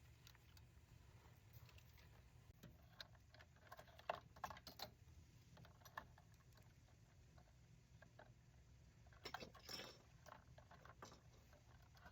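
Near silence with faint, scattered clicks and light clinks of small kitchen utensils being handled, in a cluster about four seconds in and another near ten seconds.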